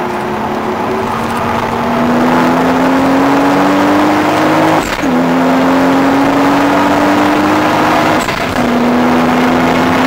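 Toyota Supra's straight-six engine under hard acceleration, heard from inside the cabin. Its pitch climbs steadily, drops sharply with an upshift about five seconds in and again about eight seconds in, then climbs again.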